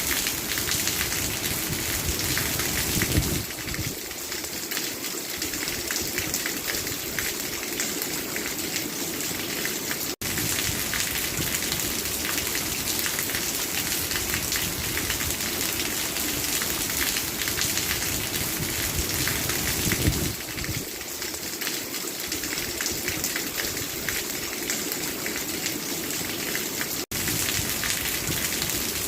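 Steady rain falling and pattering on surfaces, a dense even hiss that breaks off for an instant twice.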